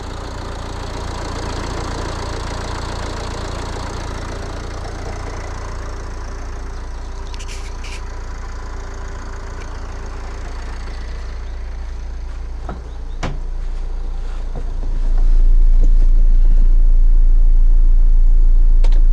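Nissan X-Trail 2.0 dCi four-cylinder diesel engine idling cold. A few sharp clicks come partway through, and from about three-quarters of the way in a loud low rumble swamps it.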